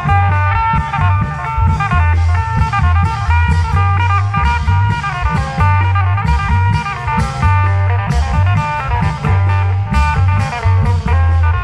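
Isan klong yao (long-drum) band music: a quick stepping melody played over a heavy, steady drum beat.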